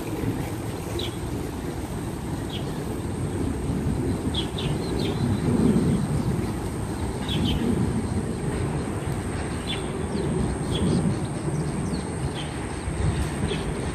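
A wild bird giving short, high chirps, singly or in quick pairs, every second or so, over a steady low rumble.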